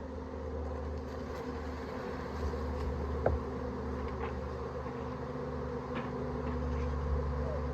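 Honeybee swarm buzzing: a steady, dense hum of many bees close to the microphone, the bees agitated and defensive. A couple of brief knocks sound over it.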